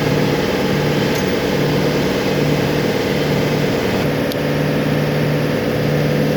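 Steady machine hum with a constant mid-pitched tone and a lower drone that cuts in and out every second or so.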